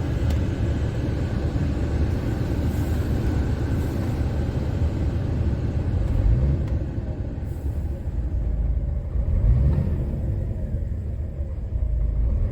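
Scania R450 truck's 13-litre inline-six diesel running with a deep rumble, its pitch rising briefly twice, about six and nine and a half seconds in.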